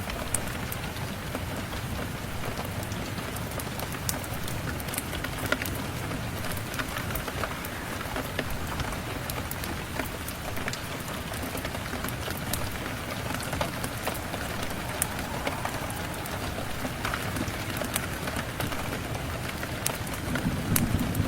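Steady rain with scattered sharp crackles and pops, like a wood fire burning. A low rumble swells near the end.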